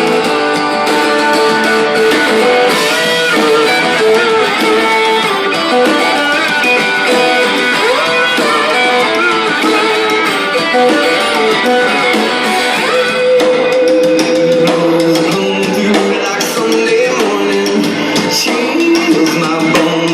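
Live guitar music: a plucked and strummed guitar playing a song, with some notes bending in pitch. The sound is thin, with little bass.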